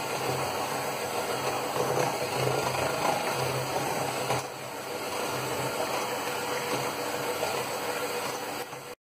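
Electric mixer running at low speed, its beaters whirring through sugar, melted butter and eggs in a bowl. The level dips briefly about four and a half seconds in, and the sound cuts off suddenly near the end.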